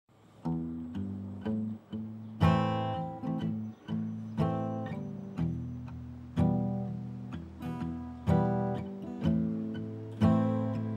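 Acoustic guitar strummed in a steady rhythm, with a strong chord about every two seconds and lighter strums in between.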